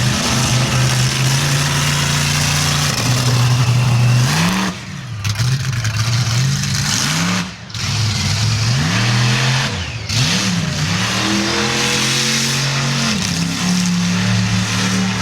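Bigfoot monster truck's engine running at a steady speed, then revved up and down several times with two short lifts off the throttle, before holding a steady, higher speed near the end.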